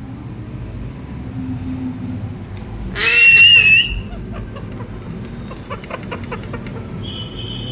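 A pet parrot gives one loud, harsh screech about three seconds in, lasting under a second, over a low steady rumble. A few faint ticks and a thin high chirp follow near the end.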